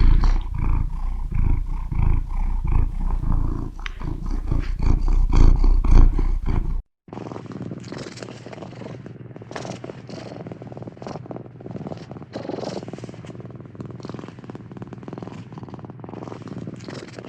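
Domestic cat purring close to the microphone, a loud rhythmic low rumble. About seven seconds in it cuts off abruptly. A quieter, thinner purr from another recording follows.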